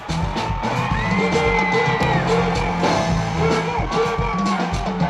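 Live concert music with a steady beat and bass line played through the PA, with whoops from the crowd.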